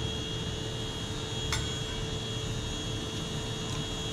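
Steady machine hum with a constant high tone over a low rumble; a single sharp click about one and a half seconds in.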